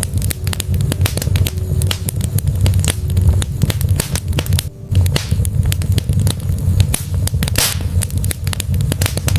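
Log fire crackling in a fireplace: frequent irregular snaps and pops over a steady low rumble, with a brief lull about halfway through.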